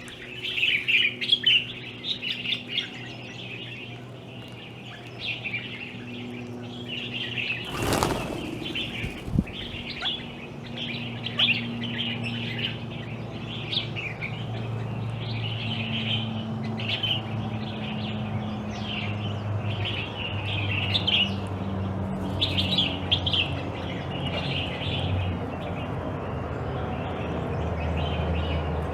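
Birds chirping over and over, short high calls coming in quick clusters, with a brief loud rustle about eight seconds in and a low steady hum underneath.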